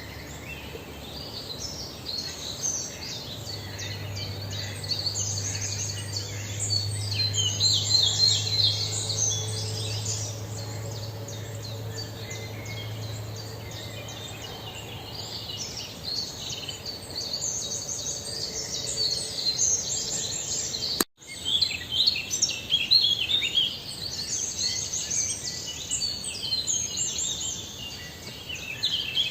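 Small birds chirping, many short high chirps overlapping. A low steady hum runs underneath for the first half. The sound drops out sharply for an instant about two-thirds of the way through.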